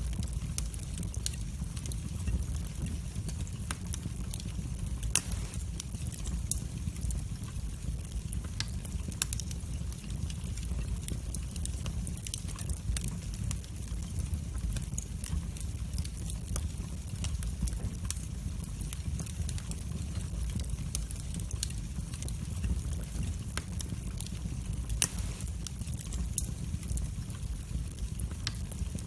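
Wood fire burning in a fireplace: a steady low rumble of flames with scattered sharp crackles and pops, the loudest about 5 seconds in and near the end.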